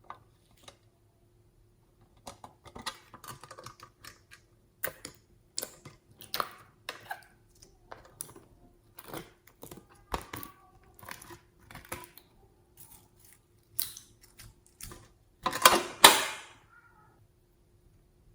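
Clear slime being mixed and squished by hand: irregular sticky clicks and small pops, with a louder, longer run of crackling about three-quarters of the way through.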